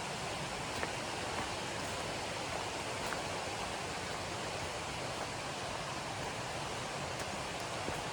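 River water running steadily with an even rush, with a few faint ticks over it.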